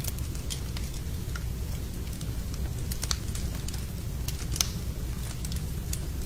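Wood fire burning in a fireplace, crackling with irregular sharp pops over a steady low rumble; one louder pop about four and a half seconds in.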